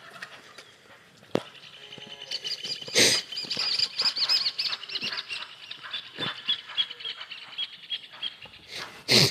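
A songbird sings a long run of quick, chirping, warbling notes for several seconds, over scattered soft steps on soil. Two short, loud bursts of noise stand out, one about three seconds in and one at the very end.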